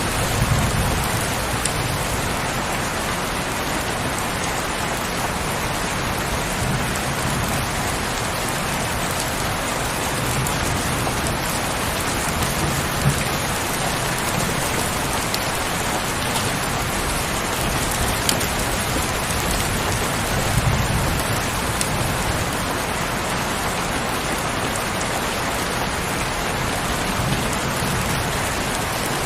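Heavy rain falling steadily, an even hiss with scattered drop ticks. A few soft low rumbles swell up now and then.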